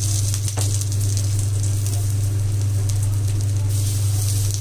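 Coated patties placed one at a time into hot oil on a tawa, the oil sizzling and crackling around them, with a few short taps as they go down. A steady low hum runs underneath.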